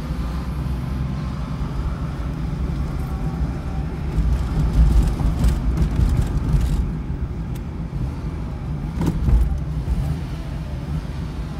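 Fiat Panda Young's 900ie four-cylinder engine heard from inside the cabin while driving slowly: a quiet, steady low hum under road and tyre noise, with a couple of soft thumps from the road. The engine is freshly rebuilt with new piston rings, a new timing chain and a new tensioner, and is running notably silent.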